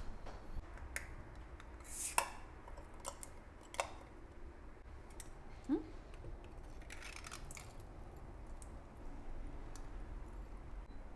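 Light handling sounds: scattered small clicks and knocks, a short rising squeak about six seconds in, and a brief rustle around seven seconds.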